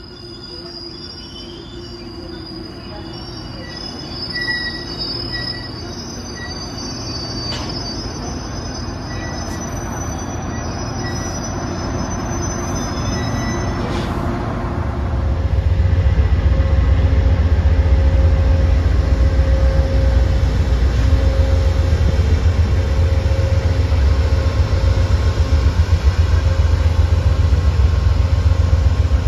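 Train approaching with a high-pitched squeal of steel wheels on the rails, growing gradually louder, then passing close from about halfway on with a loud, pulsing low rumble.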